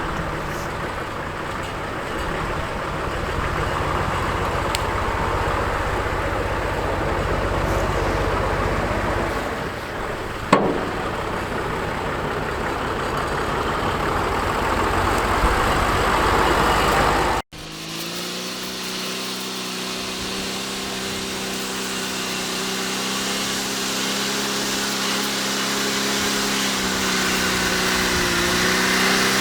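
Oliver tractor engine running, with a brief sharp clank about ten seconds in. After an abrupt cut, an engine runs at a steady, even pitch.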